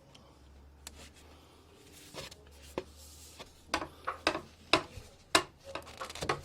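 Red PEX pipe and push-to-connect fittings being handled: a string of sharp clicks and knocks, sparse at first and then coming about two a second, over a steady low hum.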